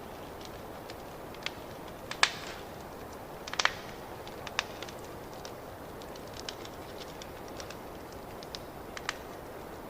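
Wood fire crackling in a fireplace: a steady hiss with scattered sharp pops, the loudest about two and three and a half seconds in.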